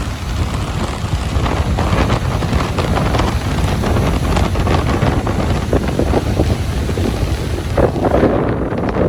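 Ocean surf washing on a beach, with wind buffeting the microphone in a low rumble. A wash of water swells up about eight seconds in.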